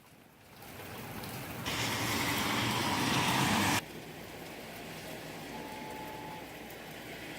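Rain falling in gusty wind, an even rushing noise. About two seconds in, a louder rush comes in for about two seconds and cuts off suddenly, then the softer rain noise goes on.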